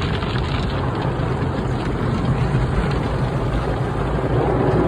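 Automatic car wash running over the car, heard from inside the cabin: a steady rush of water spray and machinery over a low hum.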